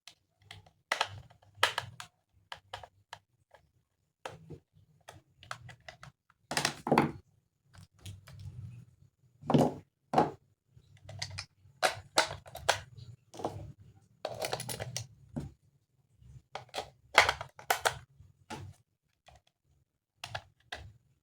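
Plastic toy parts being handled and fitted together: irregular clicks, taps and knocks, some in quick clusters, with light rustling between them.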